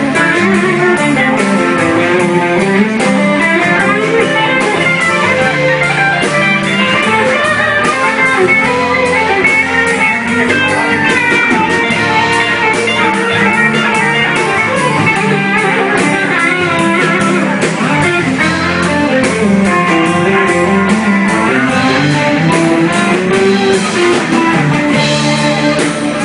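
Live country band playing an instrumental break between verses, with guitar prominent in the mix.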